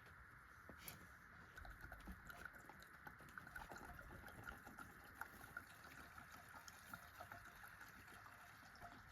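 Near silence: faint outdoor ambience, a steady light hiss with scattered small ticks and clicks.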